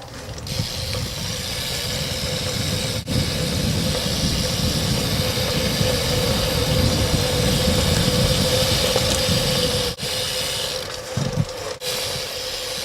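Honda car's engine running at low speed and idling, with a steady hum over the rumble.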